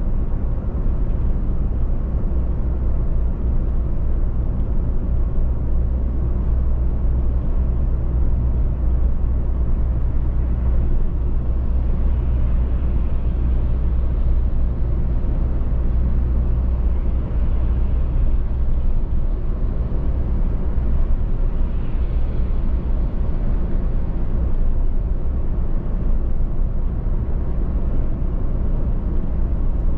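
Car driving at a steady speed: a constant low rumble of engine and road with tyre noise, rising slightly a couple of times.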